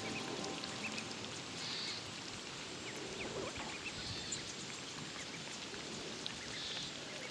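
Light rain pattering steadily, with a faint short high note repeating about every two and a half seconds.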